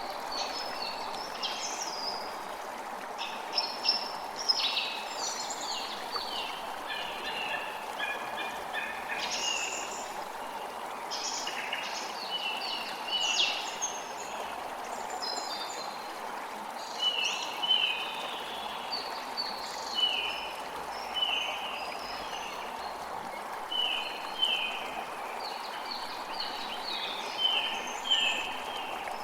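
Creek water running steadily, with several birds calling and singing over it; in the second half, one bird repeats short falling notes about once a second.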